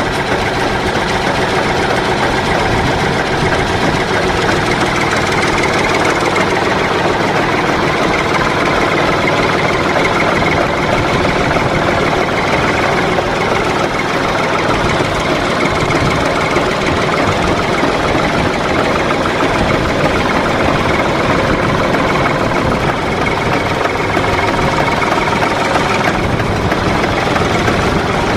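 Antique tractor engine running steadily, with a fast, even beat of its firing strokes.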